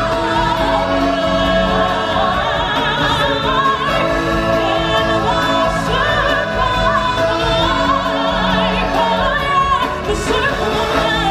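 Choral and solo singing with orchestral backing, the voices held with vibrato.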